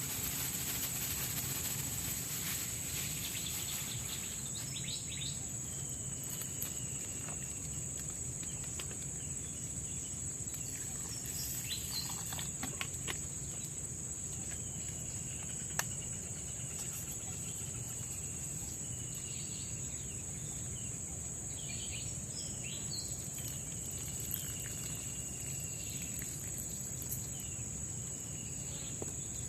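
Tropical forest ambience: a steady, high insect drone runs throughout. From about six seconds in, short calls repeat every second or two, typical of a bird.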